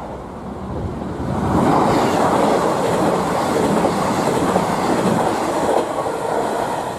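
Diesel train running past over the level crossing, its wheel and rail noise growing louder about a second and a half in and then staying steady.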